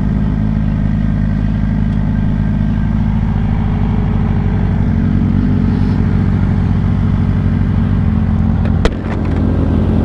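Suzuki GSX-R 600's inline-four engine idling steadily, with a single sharp click about nine seconds in.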